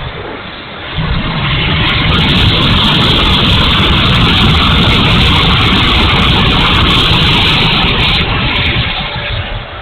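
Electric ducted-fan RC jet (E-flite F-16, 70 mm fan) making a loud, steady fan rush that comes in suddenly about a second in, holds, and fades near the end.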